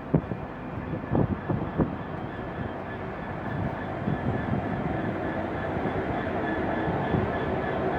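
Freight train of tank wagons hauled by a Class 66 diesel locomotive rolling into the station. Wheels knock over rail joints a few times in the first two seconds, then a steady rumble grows louder with a thin high tone running over it.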